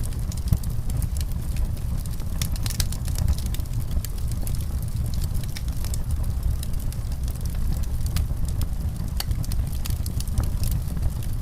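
Wood fire in a fireplace crackling, with frequent irregular sharp snaps over a steady low rumble.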